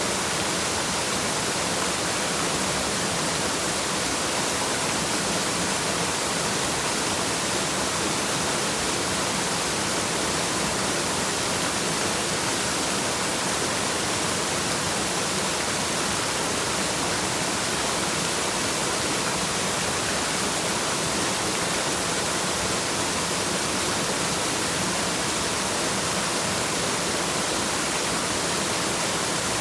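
Waterfall rushing steadily: an even, unbroken hiss of falling water with no change in level.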